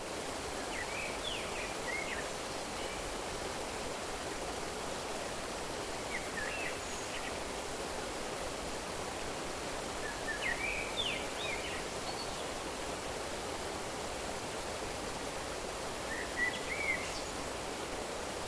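Steady rush of flowing stream water, with a songbird singing short chirping phrases four times over it.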